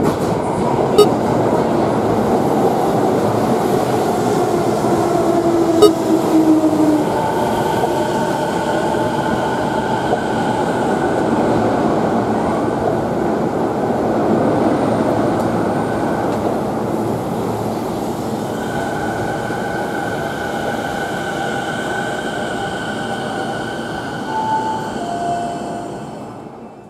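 Electric commuter train in motion: a steady rumble of wheels and running gear with a faint motor whine, one tone sliding down in pitch about six seconds in. The sound fades out at the end.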